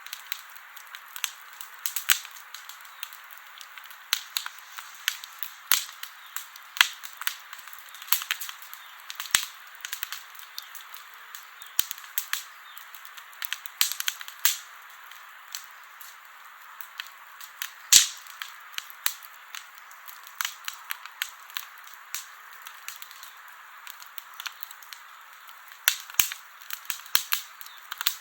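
Wood campfire burning: steady hiss with irregular sharp crackles and pops, several a second, the loudest pop about eighteen seconds in.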